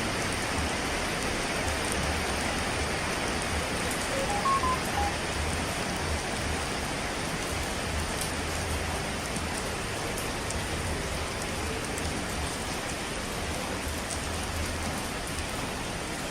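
Steady, even hiss of falling water, like heavy rain. About four seconds in, a few short beep-like tones sound briefly over it.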